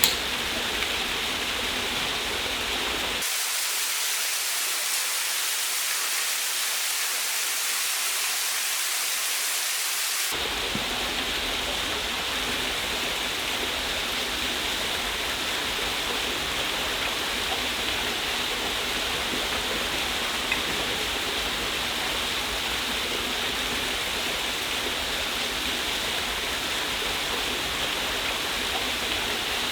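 Steady rushing of a waterfall. From about three seconds in, for about seven seconds, the low rumble drops out and the sound turns thinner and hissier, then the full rush returns.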